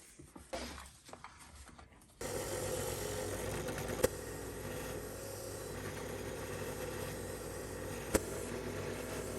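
A motor-driven wire wheel starts up about two seconds in and runs steadily, cleaning the restored vise's parts, with a couple of sharp ticks as parts meet the wheel. Before it starts there are a few light handling sounds.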